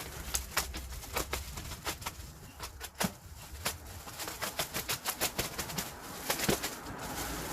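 Packaging being handled and pulled off a crated replacement engine: irregular rustling with a quick string of sharp clicks and light knocks.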